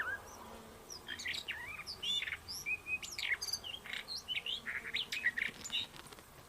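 Songbirds singing and chirping: a busy run of short whistled notes, chirps and quick up-and-down sweeps, several birds overlapping, dying away near the end.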